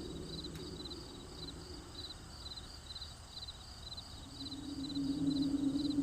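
Crickets chirping in a steady rhythm, about two short trilled chirps a second. Under them a low steady hum fades out in the middle and comes back louder about four seconds in.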